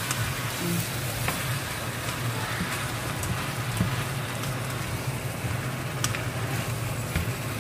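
Spiced chicken pieces sizzling steadily as they fry in a pan, stirred with a spatula that gives a few light clicks against the pan.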